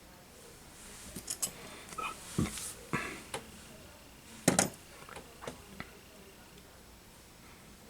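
Tools and small parts handled on a workbench: a run of light clicks, taps and rustles, with the loudest knock about four and a half seconds in.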